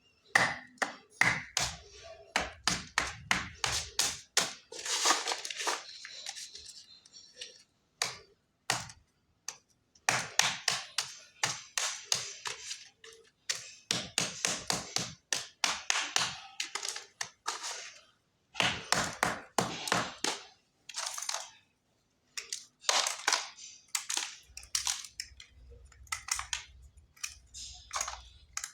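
Lumps of khadiya chalk being crushed and crumbled: a quick run of sharp crunches and cracks, coming in several bursts with short pauses between them.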